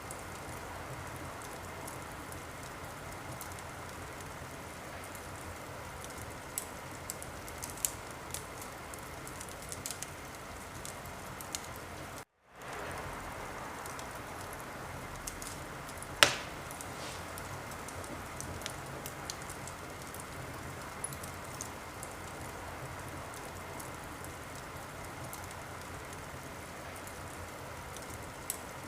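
Wood fire crackling in a fireplace: a steady hiss with scattered sharp pops and snaps, and one loud pop about sixteen seconds in. The sound cuts out completely for a moment about twelve seconds in.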